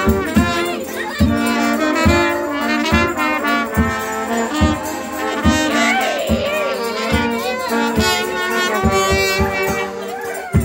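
Brass band playing a lively folk tune, trumpets and trombones over a steady bass drum beat.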